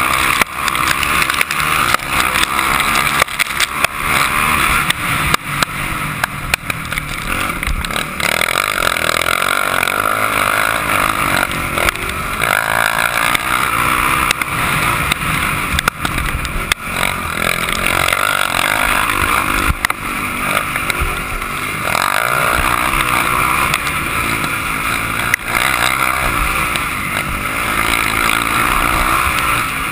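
Motocross motorcycle engine running hard, its revs rising and falling as it is ridden around the track, with frequent short knocks.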